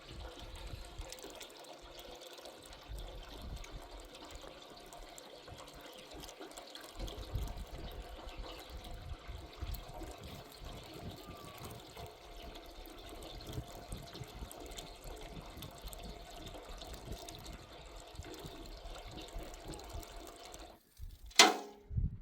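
Water running steadily, with low rumbling under it. It cuts out near the end, and a few loud knocks follow.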